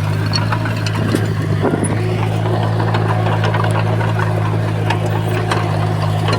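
Komatsu bulldozer's diesel engine running steadily with a deep drone, with scattered light clicks and clanks over it.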